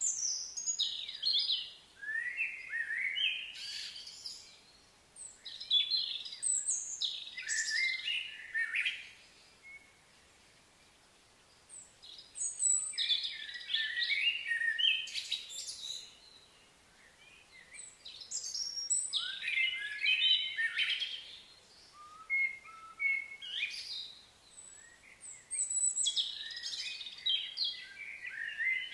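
Songbirds chirping and singing in bouts of quick, high phrases, with short pauses between bouts.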